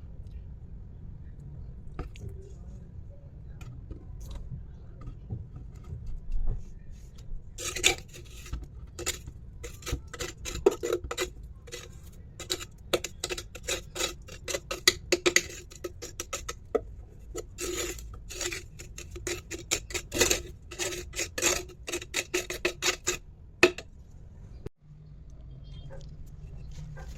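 Quick, irregular clicking and clinking of small hard objects being handled and knocked together for about fifteen seconds, over a steady low hum.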